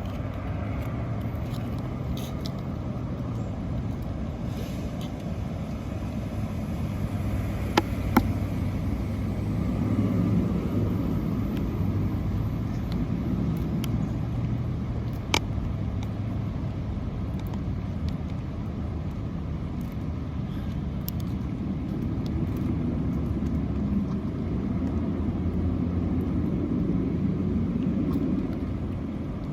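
Steady low outdoor rumble with no speech. Two sharp clicks come close together about eight seconds in, and a third comes around fifteen seconds.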